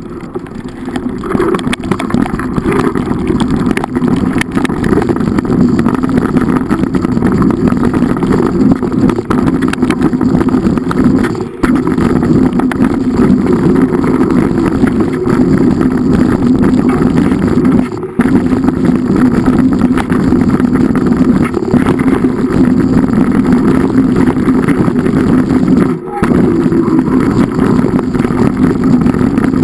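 An engine running steadily at a constant pitch, cutting out briefly three times.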